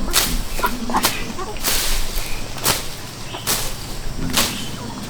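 Repeated sharp chopping strikes, about one a second and evenly spaced, each a short crack like a blade or hoe biting into wood or earth.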